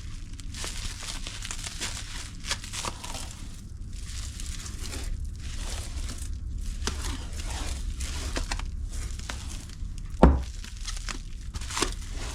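Packing material crinkling and rustling as it is wrapped around a faux fur coat, with one sharp knock about ten seconds in.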